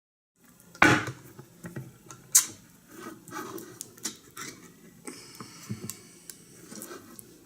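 Film sound effects: a sudden heavy thud about a second in, then a series of scattered sharp clicks and knocks, one loud click a little after two seconds.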